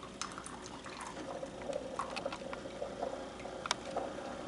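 Keurig K-Cup coffee maker dispensing hot water into a mug during the clear-water rinse cycle: faint trickling and pattering with scattered small ticks, and a steady tone joining about a second in.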